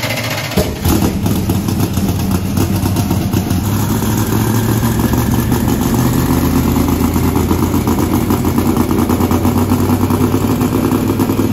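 Freshly built twin-turbo LSX-block V8 in a C5 Corvette drag car idling steadily, with a single sharp bang about half a second in.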